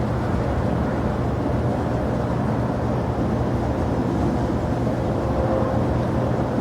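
Steady rumble of a jet airliner's engines, with a faint steady whine that comes through a little more clearly near the end.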